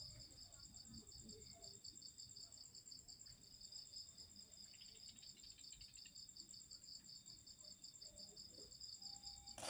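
Faint, steady chirping of insects, a fine rapid pulse at two high pitches, over near silence. A loud hiss breaks in at the very end.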